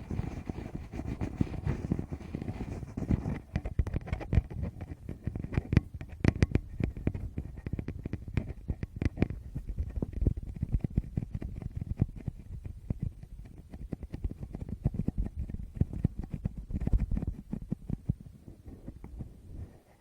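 Fingers touching, tapping and rubbing directly on a Tascam recorder's microphones: dense, muffled low rumbling and thumping with many sharp taps scattered through it.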